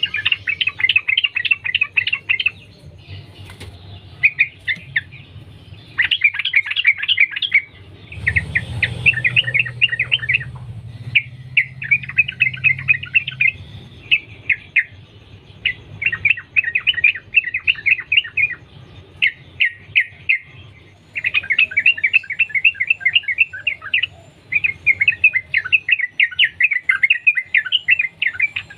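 Yellow-vented bulbul singing: long runs of rapid, chattering notes, one phrase chained onto the next with only short pauses between runs.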